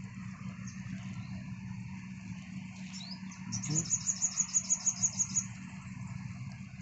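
A bird calling a fast run of high, evenly spaced notes, about seven a second, for about two seconds midway, with a short rising chirp just before. Under it runs a steady low hum and a steady high hiss.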